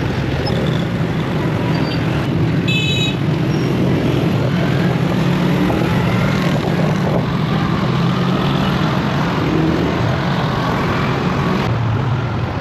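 Road traffic noise with a steady low rumble from engines and wind, and a brief high-pitched horn toot about three seconds in.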